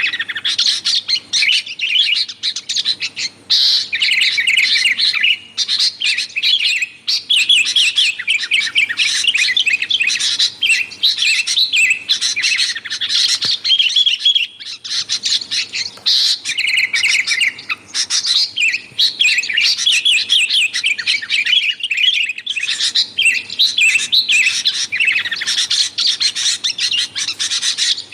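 Sooty-headed bulbuls (kutilang) chattering noisily: rapid runs of short, high-pitched chirps, broken by brief pauses every few seconds.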